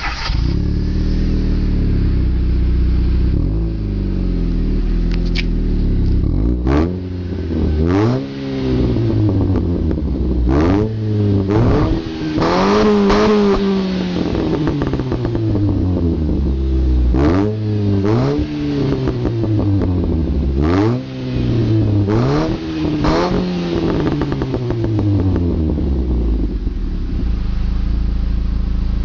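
Chevrolet Aveo engine through an aftermarket Sebring exhaust, idling and then blipped repeatedly: about a dozen quick revs that rise sharply and fall back slowly, one held up briefly about halfway through, before it settles back to a steady idle near the end.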